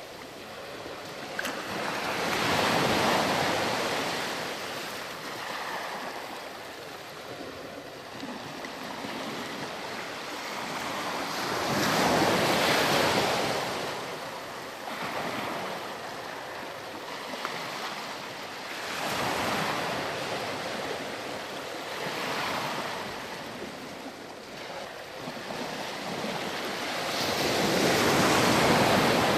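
Sea surf washing onto a sandy beach: waves break and run up the shore in slow surges that swell and fade every several seconds, about five in all, the biggest about midway and near the end.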